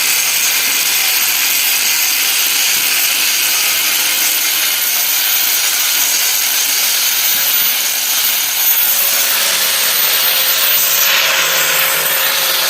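Steady, harsh hissing noise of metalwork on an excavator boom repair, shifting slightly in tone about eleven seconds in.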